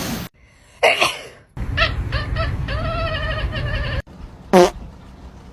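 Pet animal calls across short clips cut together: a stretch of wavering pitched calls, then one short, loud call about four and a half seconds in that falls steeply in pitch.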